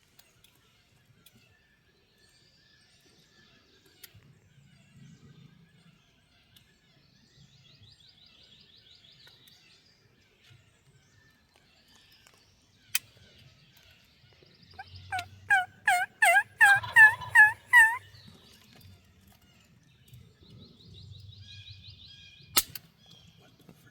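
A wild turkey calling: a loud run of about nine quick yelping notes lasting about three seconds, near the middle. Faint songbirds twitter throughout, and there are two sharp clicks.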